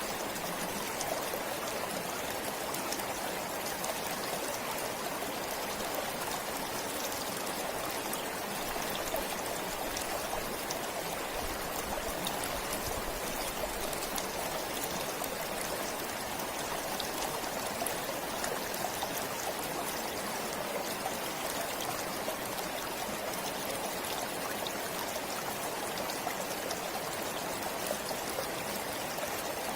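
A forest stream flowing and trickling steadily, with no change throughout.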